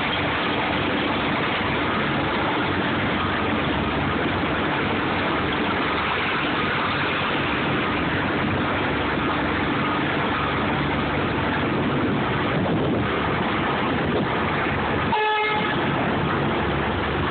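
A truck's engine running steadily under a constant loud noise, with one short horn toot near the end.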